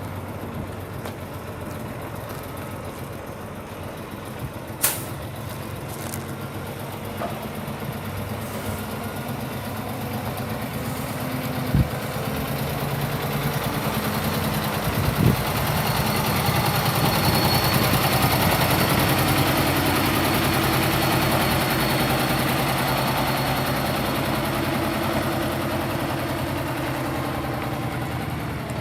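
2018 Kenworth T680 truck tractor's diesel engine idling steadily. It grows louder toward the middle and eases off again, with a few sharp clicks.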